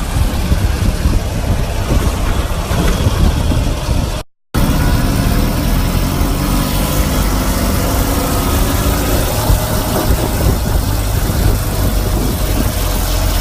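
Sidecar motorcycle's engine running under heavy wind noise on the microphone while riding. There is a brief cut about four seconds in, after which the engine hum carries a steady pitch.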